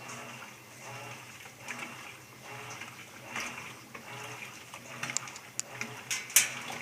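Whirlpool 14 kg digital washing machine agitating its load, water sloshing in even strokes a little over once a second over a steady motor hum, with a few sharp clicks near the end. The owner finds the wash action weak and too slow, which he says is not normal.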